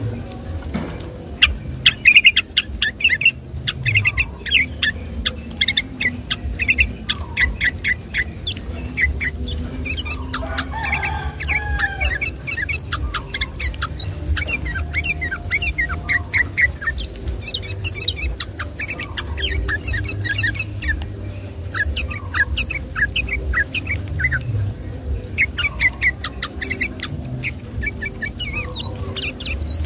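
Yellow-vented bulbul (trucukan) singing a fast, continuous run of chattering chirps, broken by a few short pauses.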